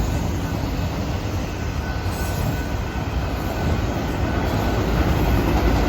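Norfolk Southern manifest freight train's cars rolling past with a steady low rumble, and a faint wheel squeal about two seconds in.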